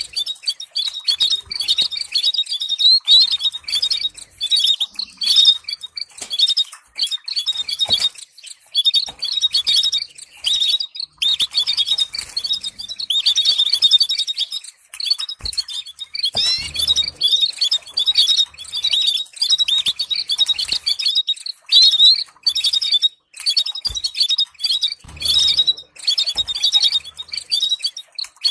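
Canary singing: fast trills and chirps in long, rapid phrases broken by short pauses, with a few sharp clicks in between.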